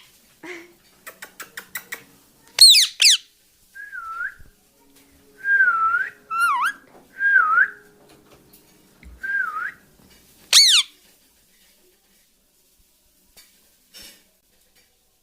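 Ring-necked parakeet screeching: two sharp falling squawks close together, then one more near the end. Between them come several softer, wavering whistles.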